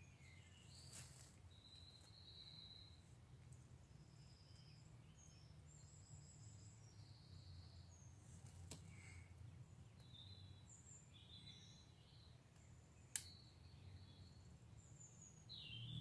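Faint woodland birdsong: scattered short chirps and whistles from several small birds over a low steady rumble, with a single sharp click about thirteen seconds in.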